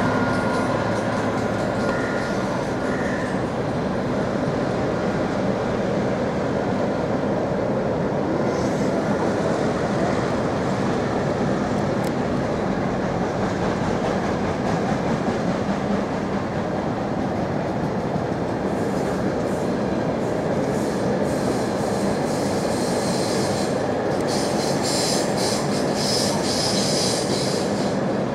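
Intermodal container freight train rolling past: a steady, continuous rumble of wagon wheels on the rails. A higher hiss of wheel squeal comes in about two-thirds of the way through and grows stronger near the end.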